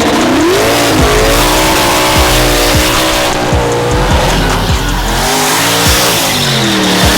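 A race vehicle's engine running hard and revving up and down, with tyres squealing in a burnout. Background music with a steady thumping beat plays underneath.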